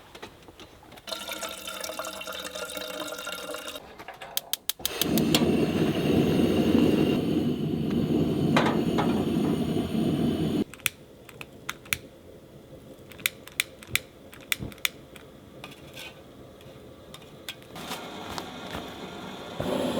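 Hot water being poured into a cup: a loud, steady rush for about six seconds that stops abruptly. Before it there is a steady pitched tone for a few seconds; after it come scattered light clicks and taps.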